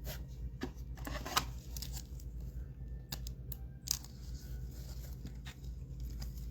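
Light crinkling, tearing and clicking as a trading card pack wrapper and cards are handled. The busiest crackle comes about a second in, with a few sharp clicks near the middle, over a steady low hum.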